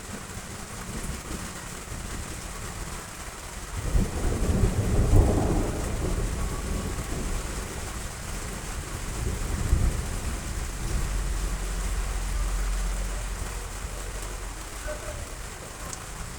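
Heavy rain falling steadily, with a low rumble of thunder that builds about four seconds in and dies away slowly over the following several seconds.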